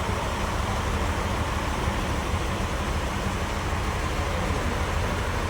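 Sawmill machinery running steadily: a continuous low mechanical hum and drone, with no clear impacts or changes.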